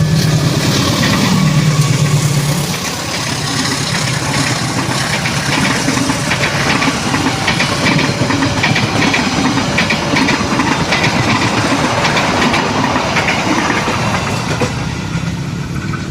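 CC206 diesel locomotive and its train running past on the rails. A steady low engine drone is heard for the first couple of seconds, then a loud rush of wheel and rail noise with a rapid clatter.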